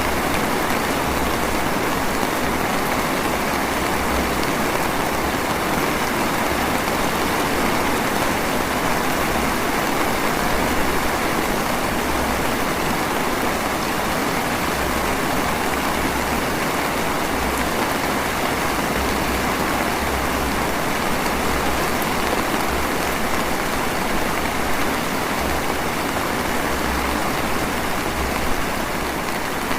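Light rain (drizzle) falling steadily, an even hiss of drops with no let-up.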